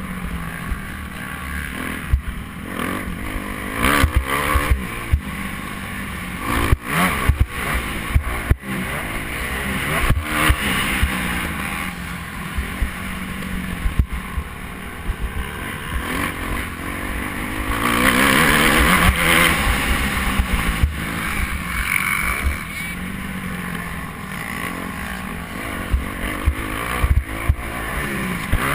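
Motocross bike engines revving up and down through the gears, with frequent short knocks on the microphone. The engines are loudest about two-thirds of the way through.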